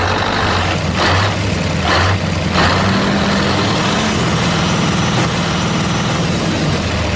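A heavy engine idling steadily, with short hisses about one, two and two and a half seconds in.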